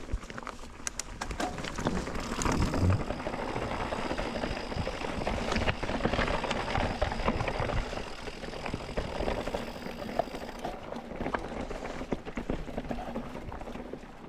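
Mountain bike rolling over rough, rocky singletrack: tyres crunching over stones and the bike rattling, with many sharp knocks. It is louder through the middle and eases off about ten seconds in.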